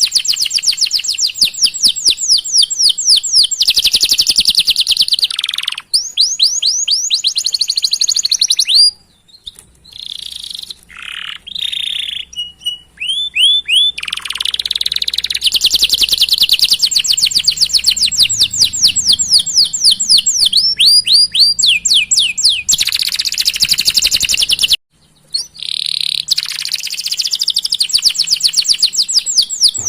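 Domestic canary singing long rolling trills of fast repeated chirps, with a short break about nine seconds in and another near the end.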